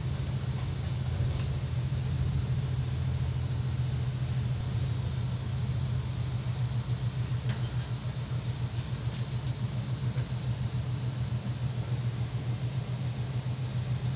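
Electric passenger train running, heard from inside the carriage as a steady low rumble that begins to pulse unevenly about halfway through.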